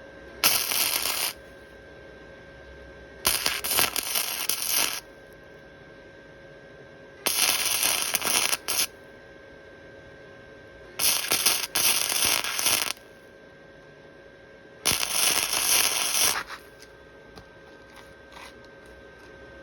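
Welding arc crackling in five short bursts of one to two seconds, a few seconds apart, as weld is laid in short runs on a cracked steel motorcycle frame. A steady hum with a faint even tone continues between the bursts.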